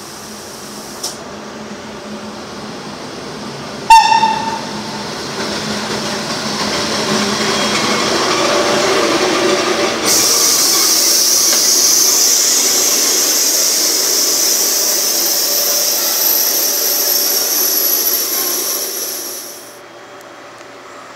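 A train passing close by on the station track. About four seconds in there is a sudden loud short tone that fades quickly. A rumble then builds, and about ten seconds in a loud steady rush of wheels and air sets in as the wagons go by. It drops off sharply just before the end as the last wagon passes.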